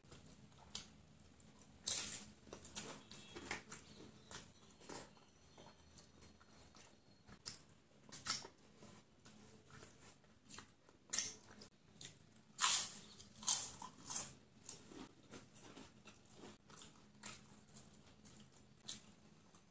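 Close-miked mouth sounds of someone eating: irregular wet smacks and chewing clicks, with louder, sharper crunchy bites clustered a little past the middle.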